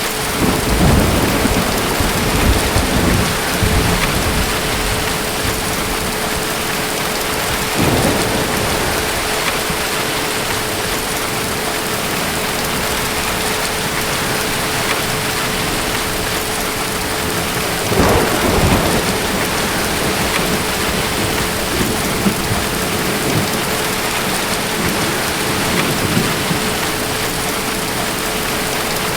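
Steady heavy rain with rolls of thunder: a long rumble near the start, a shorter one about eight seconds in, and another a little past the middle.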